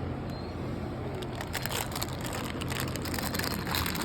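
Dog chewing and mouthing a toy monkey: scattered small clicks and crackles over a steady low hum.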